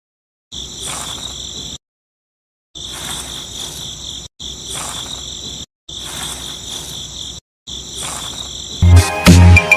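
Steady high-pitched chirring like an insect chorus, in several stretches that cut off abruptly into short silences. Music with a beat comes in near the end.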